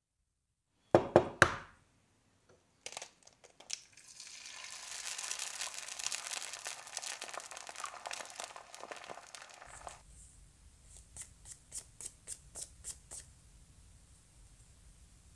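Egg cracking and frying sound effect: a few sharp cracks about a second in, then a crackling sizzle for about five seconds that stops abruptly. Light ticks and paper taps follow.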